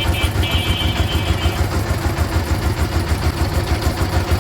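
A vehicle engine running close by in a traffic jam, its exhaust pounding out a loud, fast, even run of low pulses, about seven or eight a second. It is the grating noise that makes the jam harder to bear.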